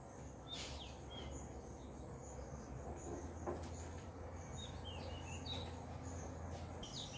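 Faint small birds chirping, short high chirps every second or so, over a steady low hum.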